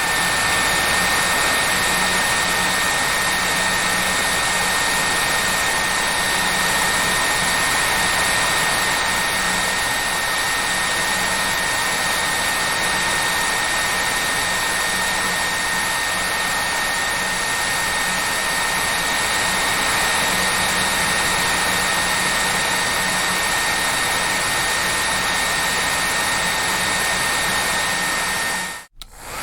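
Hair dryer running steadily with a high whine over its rushing air. Near the end it cuts out for a moment, then starts to wind up again.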